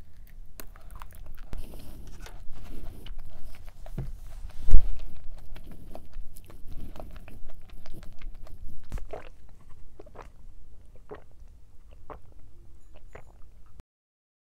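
Close-miked chewing of a thick double-chocolate almond cookie, with crisp crunches and wet mouth clicks. There is one louder thump a little under five seconds in. The chewing thins out to scattered clicks, and the sound cuts out just before the end.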